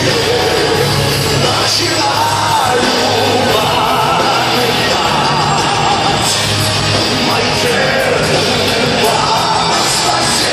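Power metal band playing live: dense, loud music with a singer's voice wavering over guitars and drums.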